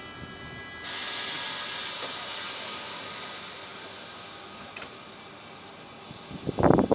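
A commuter train's pneumatic system releases compressed air with a sudden loud hiss about a second in, which slowly fades over the following seconds over a steady electrical hum. A few heavy thumps come near the end.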